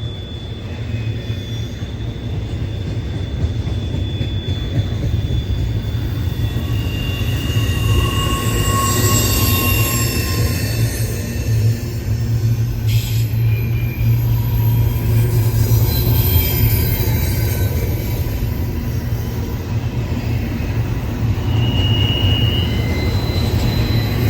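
A long train rolling past on the rails: a steady low rumble with scattered high-pitched wheel squeals, growing louder over the first several seconds.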